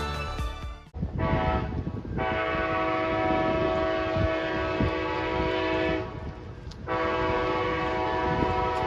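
Locomotive air horn sounding a chord: one long blast of about five seconds, a break of under a second, then a second long blast, over the low rumble of the train.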